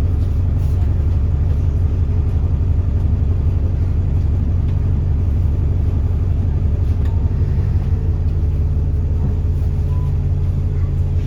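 Diesel engine of an Alexander Dennis Enviro400 double-decker bus running steadily: an even, low drone with no change in pitch.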